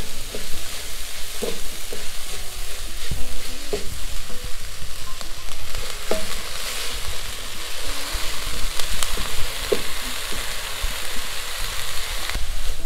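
Onion-tomato masala sizzling in a steel pan as washed drumstick flowers are tipped in and stirred with a wooden spatula: a steady frying hiss with occasional short knocks of the spatula against the pan.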